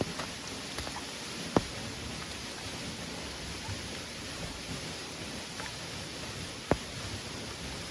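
Steady hiss of heavy rain, broken twice by a single sharp knock, about one and a half seconds in and again near the end.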